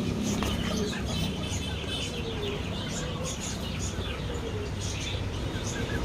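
Birds chirping repeatedly, a run of short high chirps, some sliding down in pitch, over a steady low rumble.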